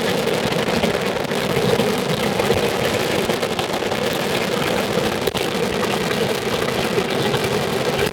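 Daytime fireworks barrage: countless rapid firecracker bangs merging into one continuous, steady crackle, with a brief dip about five seconds in.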